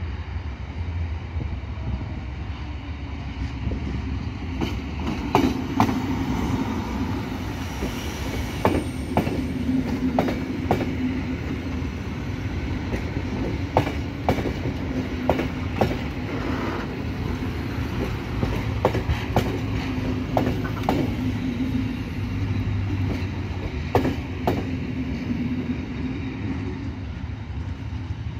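Electric multiple unit commuter train passing close by on the adjacent track, its wheels clicking sharply over rail joints in irregular groups from a few seconds in until near the end, over a steady rumble and hum.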